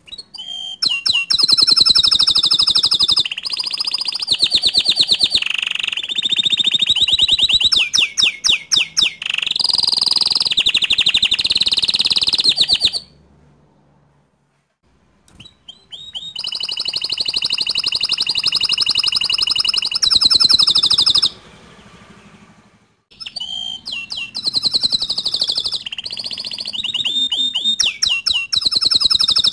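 Domestic canary singing long, loud phrases of rapid trills and rolls, in three bouts with short pauses about halfway through and again about three-quarters through.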